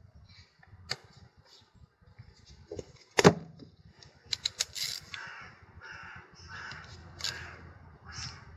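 Sharp clicks and knocks of small metal parts being handled while a gear-shift actuator is put back together, the loudest a bit over three seconds in and a quick run of them soon after. Short harsh calls repeat through the clicks.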